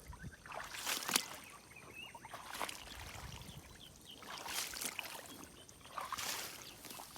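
Water splashing and sloshing in short bursts, about every second or two.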